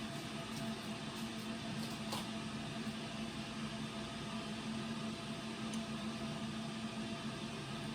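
Steady machine hum with a constant low tone, and a couple of faint clicks near the start and about two seconds in.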